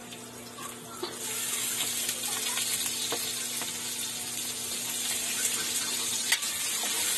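Food frying in a wok: a steady sizzle that rises sharply about a second in as chopped ingredients are scraped in from a plate, with a few light clicks of a metal utensil against the pan.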